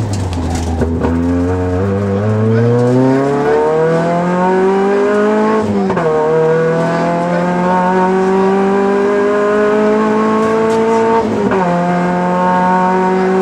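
Rally car engine heard from inside the cabin, accelerating hard up through the gears: the pitch climbs steadily, drops sharply at upshifts about six seconds and eleven and a half seconds in, then climbs again.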